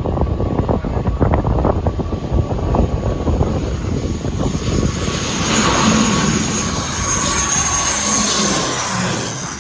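Airliner passing low overhead: its engines' whine and rush swell from about halfway through, peak, and fade near the end. Wind buffets the microphone in the first half.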